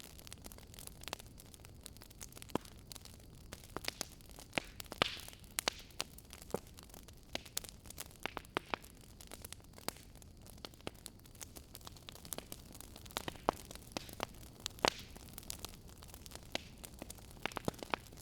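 Wood fire crackling in a fireplace: irregular sharp pops and snaps over a steady soft hiss of burning.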